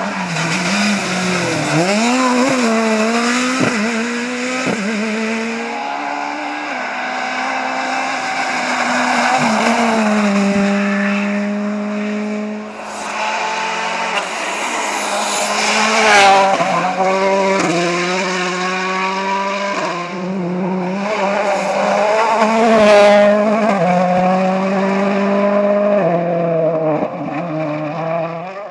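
Rally cars driven hard on a stage: engines revving up and down through quick gear changes, with tyre squeal.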